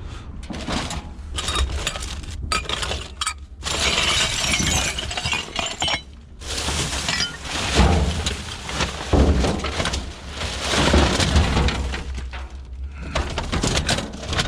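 Rattling, clinking and scraping of loose scrap metal and other hard debris being handled and moved about in a pile, with wind rumbling on the microphone.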